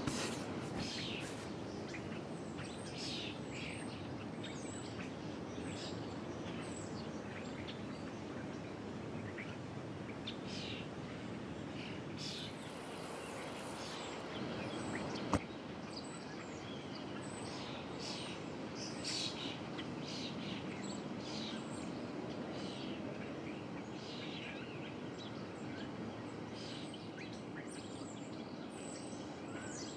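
Outdoor ambience of small birds chirping, many short high calls scattered over a steady background hiss. A single sharp click about halfway through.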